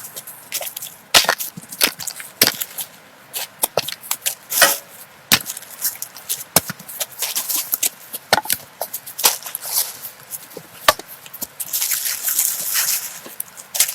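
Irregular sharp knocks and cracks of wood, sticks or branches being struck or handled, with a spell of rustling near the end.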